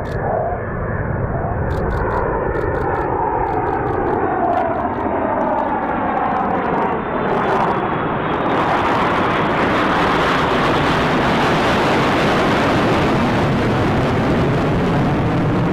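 Fighter jet engine noise: first a jet passing with sweeping, wavering tones, then from about halfway a louder, steady rushing sound.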